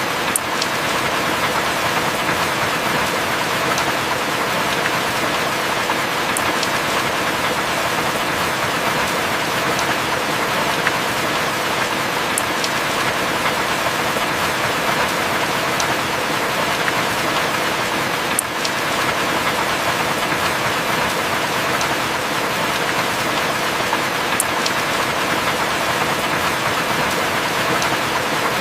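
Heavy rain falling steadily as an even hiss, with a few sharp drop ticks scattered through it.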